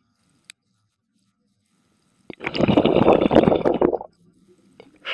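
Scuba diver exhaling through the regulator underwater: one loud gush of bubbles, about a second and a half long, starting about halfway through.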